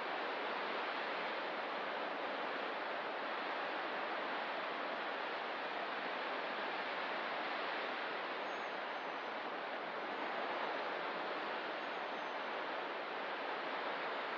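Ocean surf as a steady, even wash of noise, with no single wave standing out.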